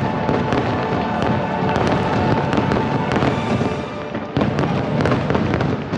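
Fireworks display with many rapid crackling bursts, and a louder burst about four seconds in, over the show's music soundtrack.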